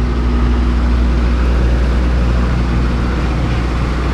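An engine running steadily, a loud, even low hum with no change in speed.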